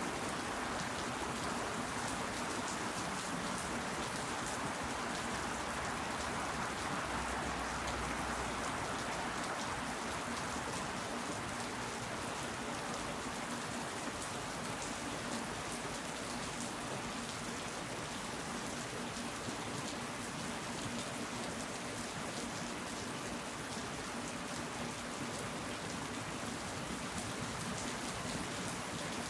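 Steady rain falling and pattering on leaves.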